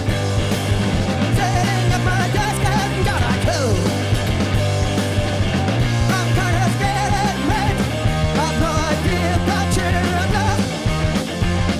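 Rock band playing live at a steady, loud level, with bass, drums and a wavering sung or shouted vocal over the top.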